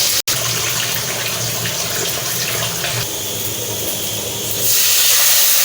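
Water being poured into a cooking pot on the fire, a steady rushing hiss that grows louder about four and a half seconds in. There is a momentary break in the sound just after the start.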